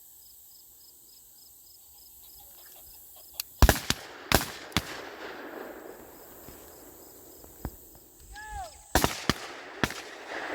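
A volley of shotgun shots from several hunters firing at flushed pheasants, each with an echoing tail. Several come in quick succession about three and a half seconds in, then scattered shots follow toward the end. Before the first shots, faint insect chirping repeats evenly.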